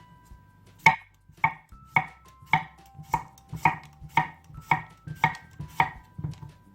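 Crunchy chewing close to the microphone: about ten evenly spaced crunches, roughly two a second, over soft background music.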